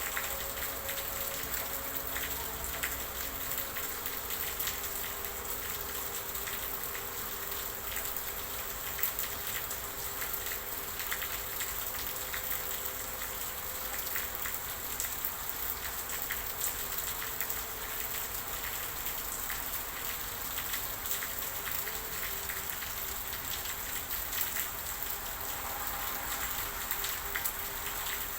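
Steady rain falling, with many separate drops ticking on a surface over the continuous hiss.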